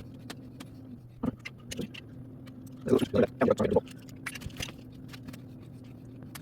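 Light clicks and rattles of a plastic bicycle reflector and its bracket being handled and fitted onto the handlebars, with a quick burst of rattling about three seconds in.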